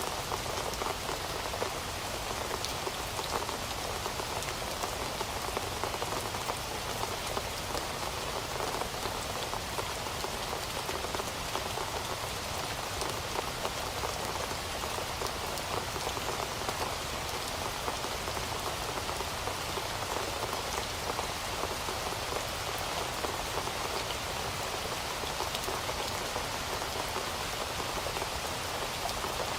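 Heavy rain falling steadily, a dense even hiss of drops spattering on a surface, with no thunder or other sounds.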